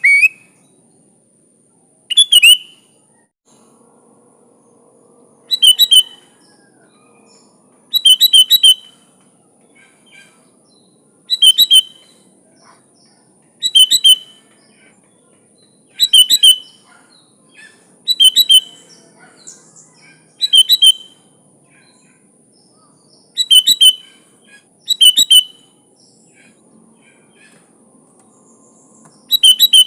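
Sooty-headed bulbul calling: short, bright phrases of a few quick notes, repeated about every two to three seconds. A faint steady high-pitched tone runs underneath.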